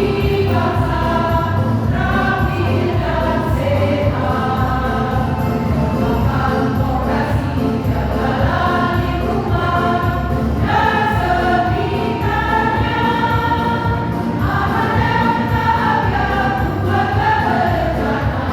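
A choir singing a song together, the voices held and moving through phrases without a break.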